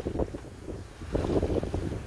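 Wind buffeting the microphone aboard a sailboat under sail, an uneven low rumble that comes and goes in gusts.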